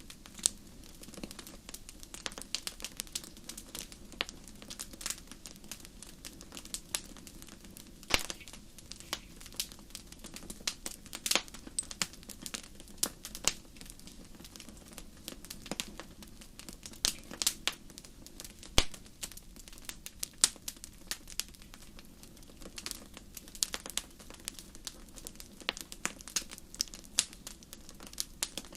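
Wood fire crackling in a fireplace: many irregular sharp pops and snaps over a low steady rumble of the burning logs.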